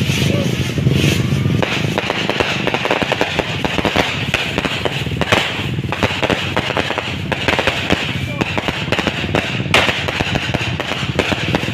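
Fireworks crackling in a rapid, continuous stream of small bangs. A motor's low hum fades out about a second and a half in, as the crackling takes over.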